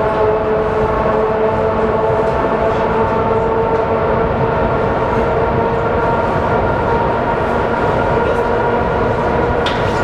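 ER2K electric train running, heard from inside the passenger car: a loud steady rumble with a whine of several tones from the traction motors and gears, rising slightly in pitch over the first few seconds as the train gathers speed. A sharp click near the end.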